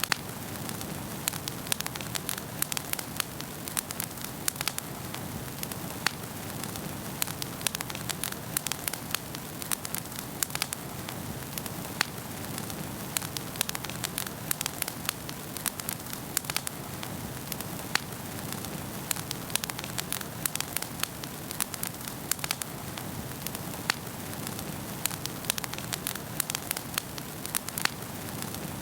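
Wood fire in a fireplace crackling, with frequent irregular sharp pops and snaps over a steady low rush of burning.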